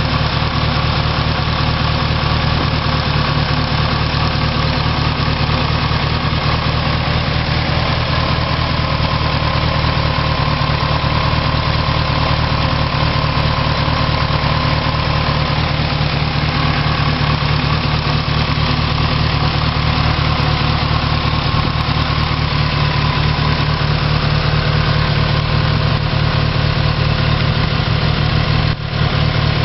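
Turbocharged Mitsubishi 4G63 inline-four engine idling steadily, with a brief drop in level near the end.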